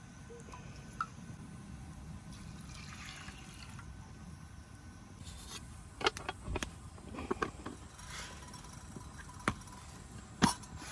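Quiet handling noises: a few scattered clicks and knocks over a low steady rumble, clustered about six to seven and a half seconds in, with a single sharper knock near the end.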